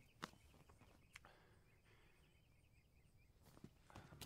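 Near silence with faint birds chirping, and a few soft rustles and clicks near the end.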